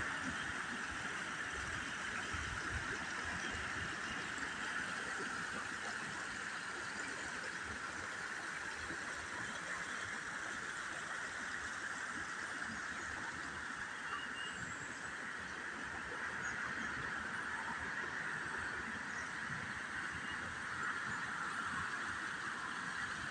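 Creek water rushing and splashing steadily over its bed, an even, unbroken hiss.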